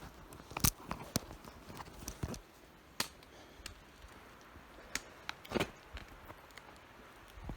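A hiker's footsteps on a rocky trail: a handful of sharp, irregular clicks and knocks over a faint hiss.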